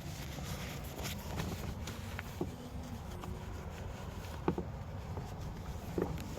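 Steady low outdoor background noise with a few faint sharp taps, about two seconds apart.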